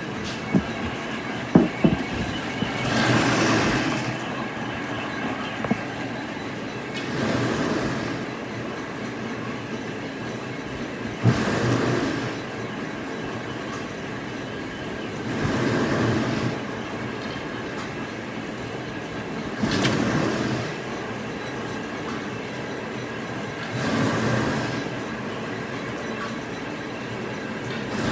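Factory machinery in a plywood mill running steadily with a faint whine. A noisy rush lasting about a second repeats every four seconds or so as the machine cycles, and there are a few sharp clicks near the start.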